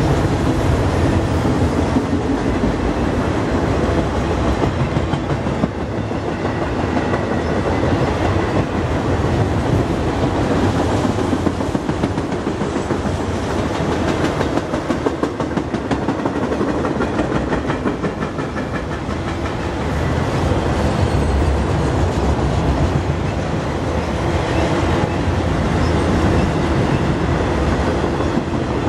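Freight train of enclosed autorack cars rolling past: steady rumble of steel wheels on the rails with a running clickety-clack of the wheels.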